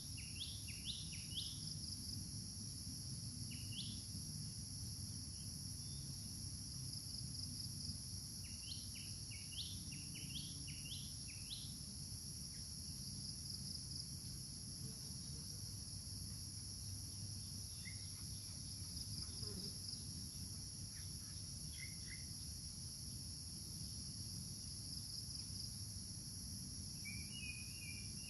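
Steady high-pitched drone of insects, crickets or cicadas, with small birds giving quick upward chirps in short runs at the start, around ten seconds in and near the end, over a low rumble of background noise.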